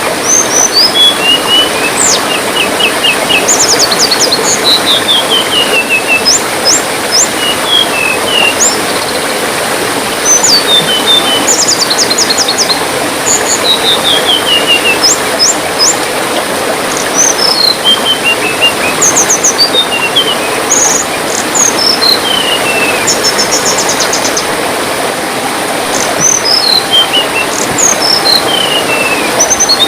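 A songbird repeating short, high phrases of quick notes that step downward, every second or two, over a steady hiss of trickling water.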